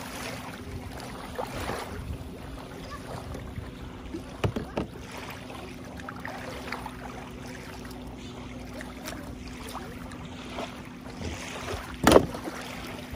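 A steady engine hum at idle, with a few short sharp knocks: a pair about four and a half seconds in and a louder one near the end.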